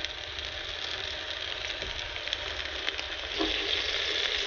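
Vegan scallops frying in butter in a hot pan, sizzling and crackling steadily. The sizzle grows louder about three and a half seconds in.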